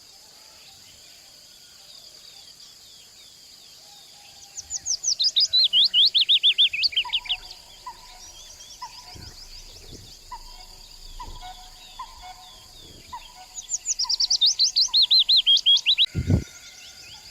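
Wild birds singing: one bird gives two loud bursts of rapid, high, falling notes, and between them another repeats a single lower note about once a second. A single low thump comes near the end.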